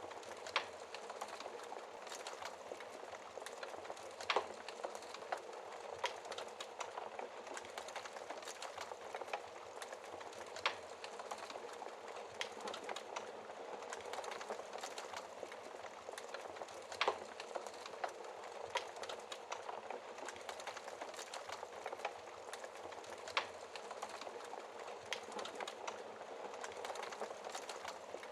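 Wood fire crackling in a fireplace: a steady soft hiss with many small irregular pops, and a louder sharp pop every five or six seconds.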